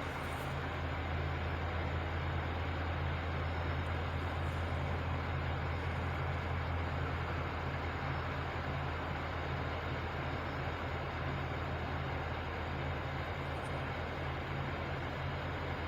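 Truck engine idling steadily: a constant low hum with an even rush of noise above it.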